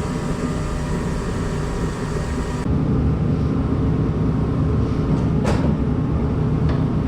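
A steady low rumble and hum, with one sharp clink about five and a half seconds in.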